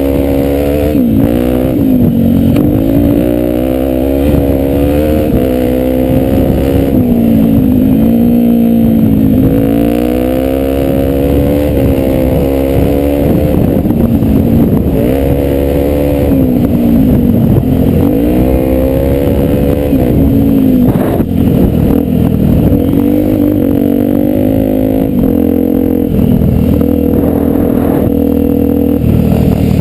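Honda Tornado 250 single-cylinder four-stroke motorcycle engine running under load on an off-road ride. It revs up and drops back again and again as the throttle is opened and closed.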